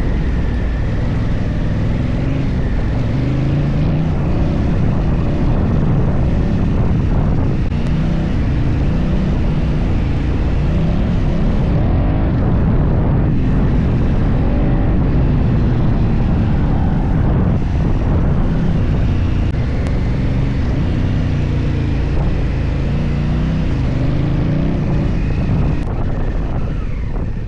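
Adventure motorcycle engine running while riding off-road, its pitch rising and falling repeatedly with throttle and gear changes.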